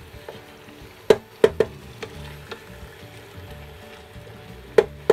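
Wooden spatula stirring chicken curry in a stainless steel pot, striking the pot's side in sharp ringing clanks: three in quick succession about a second in and two more near the end. The curry sizzles faintly underneath.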